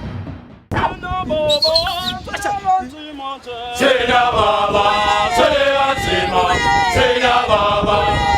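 A cappella choir singing: a lead voice and a few singers first, then the full choir comes in louder just under four seconds in. A short tail of fading music comes before it, and the singing starts with a sudden cut.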